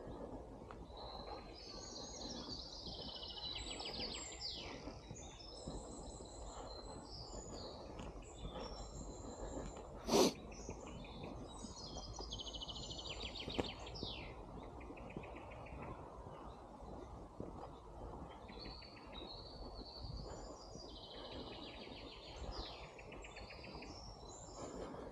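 Songbirds singing, with several chirping and trilling phrases overlapping over a steady low background noise. A single sharp knock about ten seconds in is the loudest sound, followed by a fainter click a few seconds later.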